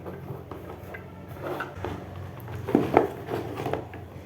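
Handling noise from a mini sewing machine and its box: scattered clicks and knocks, the loudest few close together about three seconds in.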